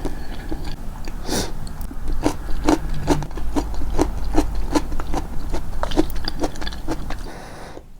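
Close-miked chewing with the mouth, a steady rhythm of about two to three chews a second that stops near the end.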